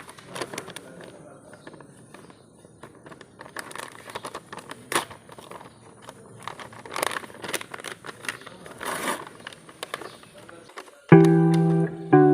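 Scattered, irregular metallic clicks and knocks of tools and engine parts being handled while a truck air compressor is reassembled. About 11 seconds in, guitar music starts suddenly and is louder than the work sounds.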